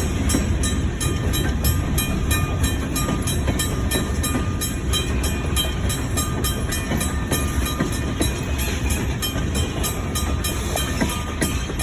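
Ann Arbor Railroad train moving in a pushback (shoving) move: a steady low rumble of the train on the rails, with faint regular clicking over it.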